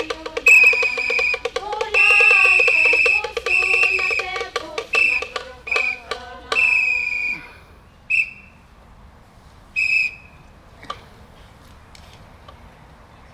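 A whistle blown in repeated short and longer blasts over drumming and group chanting; the drumming and chanting stop about seven seconds in, and the whistle then sounds a few short single blasts.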